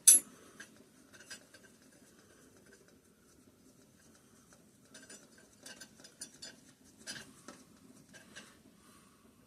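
Metal-on-metal clinks and light scrapes from a bolt being threaded into an engine connecting rod and hand tools being handled. One sharp clink comes right at the start, then scattered small clicks about halfway through.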